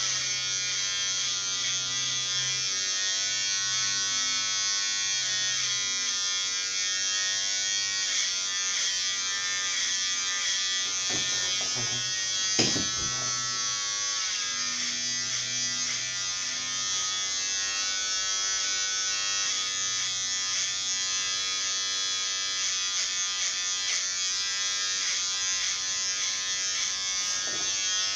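Electric hair clipper running steadily while cutting hair, a continuous buzz with one sharp click about twelve seconds in.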